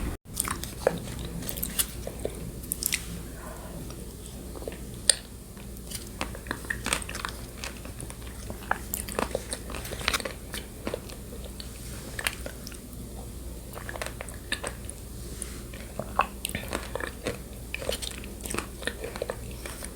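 Close-miked mouth sounds of eating yogurt with shredded coconut: wet chewing, lip smacks and many small irregular clicks.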